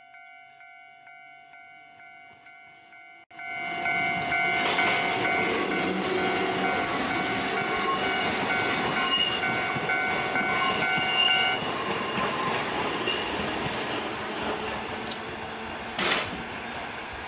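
A Kotoden Shido Line electric railcar runs past close by, its wheels loud on the rails, with clickety-clack. For the first few seconds only a faint ringing bell is heard, pulsing about twice a second, and it keeps ringing under the train noise until it stops suddenly past the middle. A sharp clank comes near the end as the car draws away.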